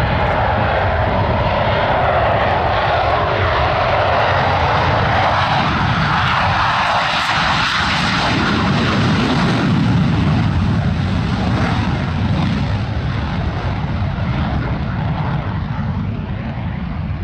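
Aircraft engine noise, loud and even, swelling to its loudest about halfway through and then slowly dying away.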